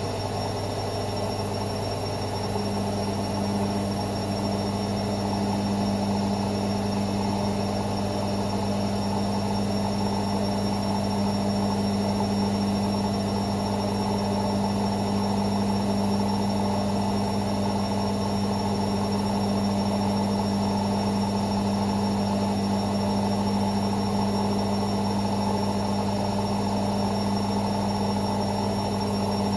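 Hoover Six Sportswear 1300 (AI130) washing machine running with a steady motor hum and whir. Part of the hum fades for about the first two seconds, then holds steady.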